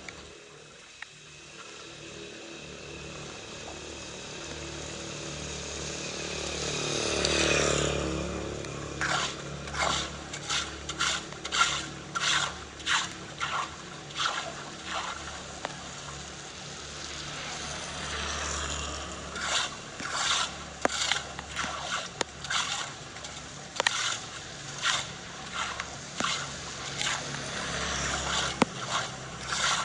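Water running, with two long runs of sharp, rhythmic scraping and splashing strokes, about one and a half a second: debris being worked loose from a clogged drain in the water.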